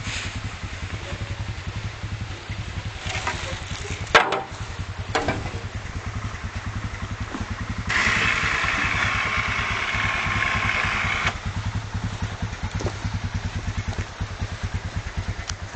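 Tractor engine running steadily with an even, rapid firing beat. A sharp knock sounds about four seconds in and a smaller one a second later, and a louder hissing rush covers about three seconds from about eight seconds in.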